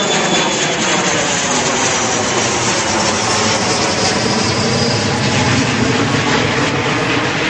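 Embraer E170 regional jet passing close, the steady noise of its two turbofan engines loud throughout, with the engine tones falling slowly in pitch as it goes by.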